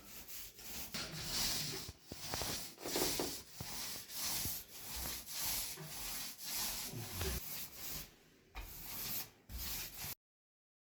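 Hand sanding of a dried drywall patch: repeated rubbing strokes of abrasive on joint compound, about two a second, cutting off abruptly near the end.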